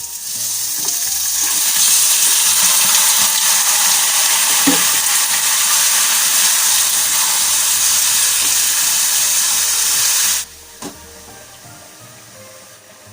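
Chicken pieces sizzling loudly in hot cooking oil in a frying pan. The sizzle swells in the first couple of seconds, then drops off sharply about ten seconds in to a much quieter sizzle.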